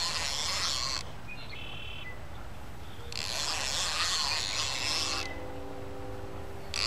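Fishing reel drag buzzing as a hooked catfish pulls line off. There are spells of about two seconds: one ending about a second in, one from about three to five seconds, and another starting near the end.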